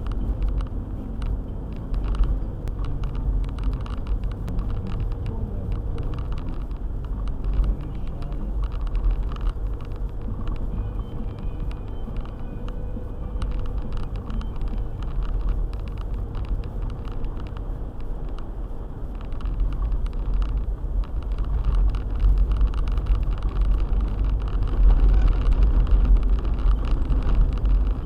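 Four-wheel-drive car driving on a snowy road: a steady low rumble of engine and road noise with many small ticks and knocks, getting louder over the last third.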